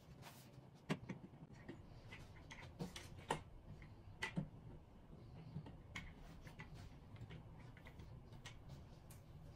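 Light clicks and knocks of the metal tube frame and desktop of an adjustable desk being handled and fitted together: a few sharper taps in the first half, sparser ones later, over a faint low hum.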